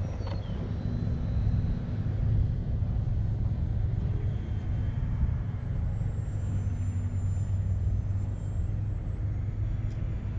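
Steady low outdoor rumble with the faint, high whine of a fast RC airplane flying at a distance, its pitch drifting as it passes partway through.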